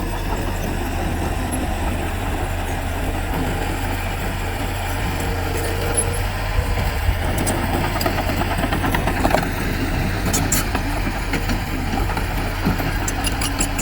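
Heavy diesel engine of earthmoving machinery running steadily, with a few brief clicks about ten seconds in and again near the end.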